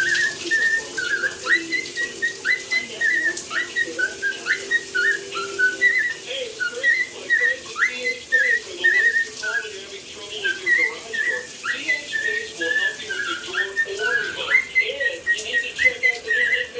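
Cockatiel chattering in a fast string of short chirps and warbles, imitating budgies, over the hiss of a running shower.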